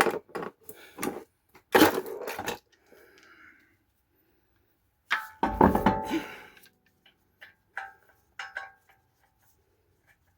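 Metal hand tools and sockets clattering as they are handled and set down. There are several knocks at the start, a louder clatter about two seconds in, a heavier clunk around five to six seconds in, then a few light ringing metallic clinks.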